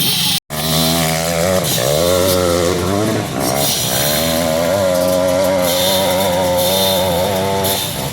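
A 200–250cc dirt bike engine revving hard under load, its pitch rising and falling with the throttle through the climb. The sound cuts out completely for a moment about half a second in.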